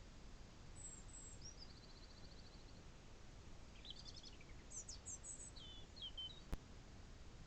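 Faint wild songbirds singing: thin high notes and a fast trill, then a run of varied chirps and whistles. One sharp click comes a second before the end, over a low background hiss.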